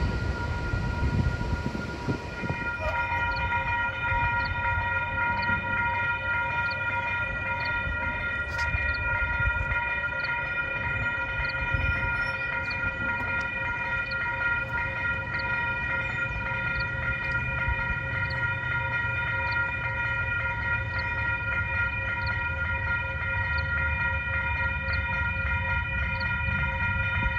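Railroad crossing warning bell starting about three seconds in and ringing steadily at roughly one and a half strikes a second, over a low rumble.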